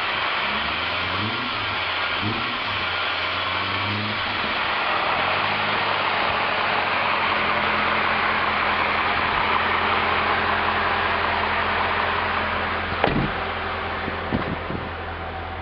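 2001 BMW M5's 4.9-litre V8 running, given a few light blips of the throttle in the first few seconds and then settling to a steady idle. A sharp click comes near the end.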